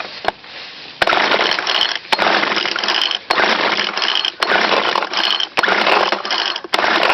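Small two-stroke engine of a handheld yard tool, just primed, running loud and smoky from about a second in, its sound dropping briefly about once a second as the throttle is worked.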